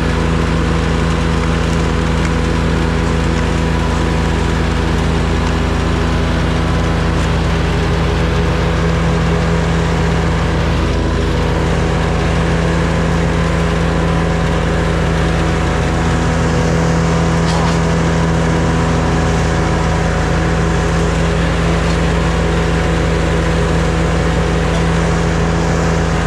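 A small gasoline engine running steadily at one constant speed, loud and unbroken throughout.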